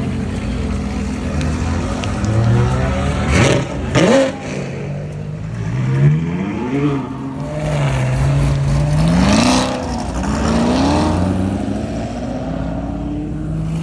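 Car engines revving hard several times, each rev climbing in pitch and dropping back between revs, with two short loud bursts about four seconds in.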